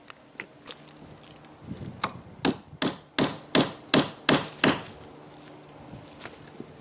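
A hammer striking about eight quick, evenly spaced blows, about three a second, starting about two seconds in, with a few light taps before them.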